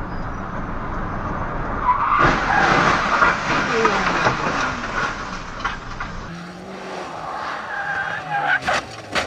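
Car tyres skidding on the road amid loud road noise, with sliding squeal-like tones, then a few sharp impact knocks near the end.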